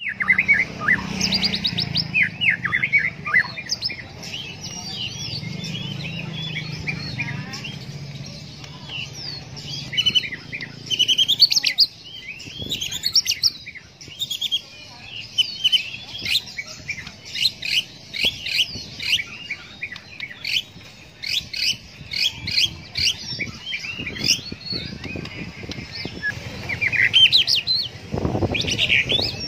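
White-rumped shama (murai batu) singing a long, varied song of quick whistles, trills and chirps with hardly a break, its song filled in with mimicked phrases of other birds. A steady low hum sits under the song for the first several seconds.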